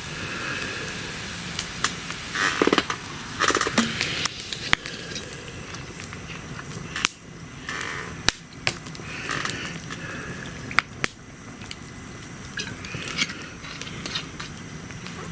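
Wood campfire crackling, with irregular sharp pops and snaps over a steady hiss and a couple of short sputtering bursts a few seconds in.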